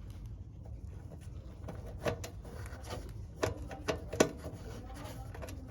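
A few sharp clicks and light clinks of tools and parts being handled during work on a water heater's burner and pilot assembly, over a steady low hum. The clicks come in a cluster from about two to four seconds in.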